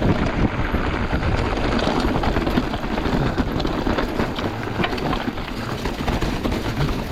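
Mountain bike riding fast over a rough dirt and rock trail: tyres rumbling and the bike rattling with many small knocks, over a steady rush of noise.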